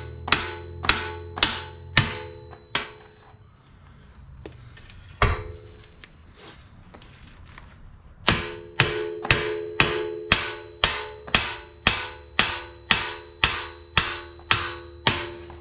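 A hammer striking steel in even, repeated blows of about two a second, each blow ringing metallically. After the first few seconds the blows stop, with a single strike about five seconds in, then the steady hammering resumes for the second half.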